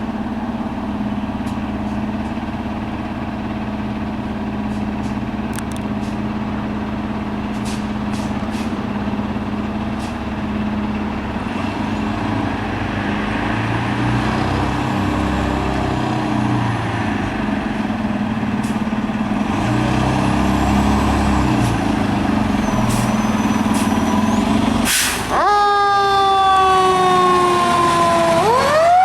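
Fire engine's diesel engine running steadily, revving up a little partway through. About 25 s in, a short hiss of air from the brakes releases. Then the siren starts wailing, its pitch sliding down and sweeping sharply back up near the end.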